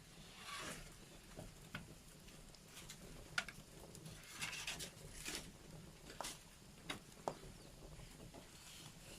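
Wood fire in a fireplace crackling quietly: irregular sharp pops, the loudest about three and a half seconds in, with two brief hissing swells.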